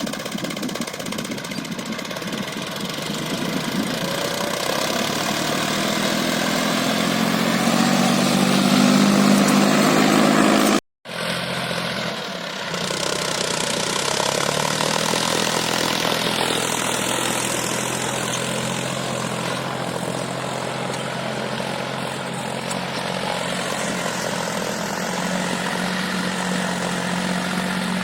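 John Deere 5050E tractor's three-cylinder diesel engine running steadily, growing louder up to about ten seconds in. The sound cuts out completely for a moment, then the engine carries on at a steady level.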